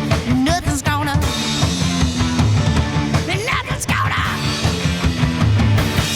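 Rock band playing live with guitars, bass and drums, with wavering, bending lines over the top.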